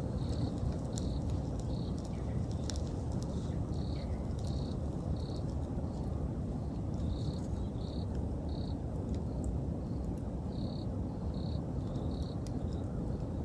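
Autumn insects chirping in short, evenly spaced pulses, about one to two a second, over the steady low rush of a wood campfire, with a few sharp crackles and pops from the burning wood, most of them in the first few seconds.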